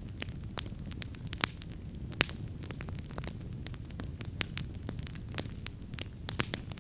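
Wood campfire burning, with irregular sharp crackles and a few louder pops over a steady low rumble of the flames.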